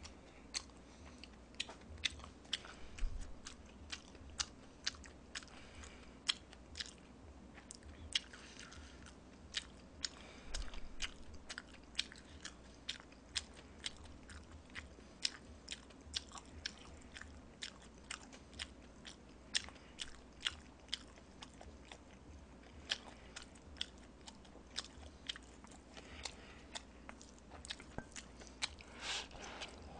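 Close-miked chewing of Chapagetti black bean instant noodles: a steady run of small mouth clicks and smacks, one or two a second.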